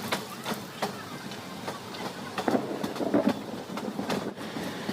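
Rupasi Bangla Express passenger train running between stations, its coach wheels clicking and clacking irregularly over rail joints above a steady rolling rumble.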